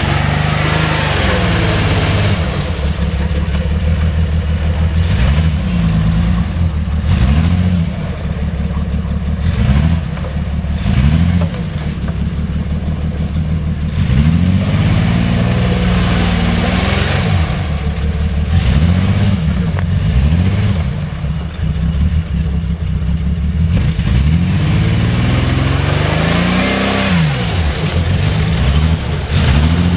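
Vehicle engine running, its pitch rising and falling again and again as the throttle is opened and eased off.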